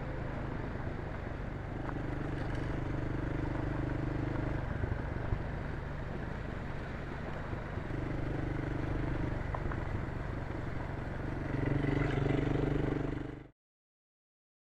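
Suzuki DR650's single-cylinder four-stroke engine running as the motorcycle rides a dirt road, with steady road and wind noise. The engine note swells three times as the throttle opens, then the sound cuts off suddenly near the end.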